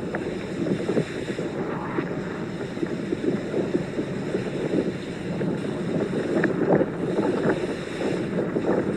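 Strong wind buffeting the microphone in a snowstorm: a steady, crackling rush of noise.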